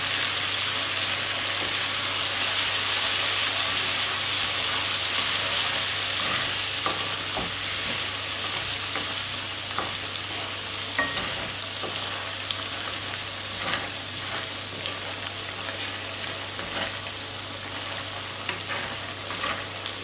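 Lemon pieces and chili powder sizzling in hot sesame oil in a metal kadai while a wooden spatula stirs them. The sizzle is steady and eases slightly toward the end, with scattered small taps and pops from the spatula and the frying.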